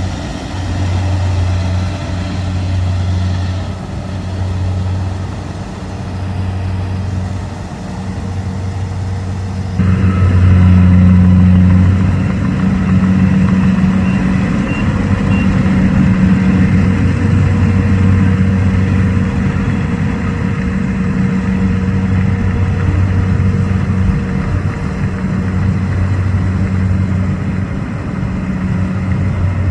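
Rice combine harvester running, a steady low machine hum that swells and dips every second or two. About ten seconds in it gets louder and brighter.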